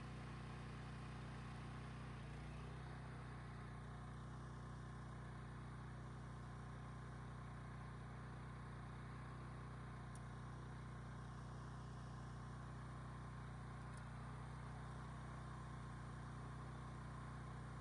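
Gas-engine garden tiller running steadily with an even engine note.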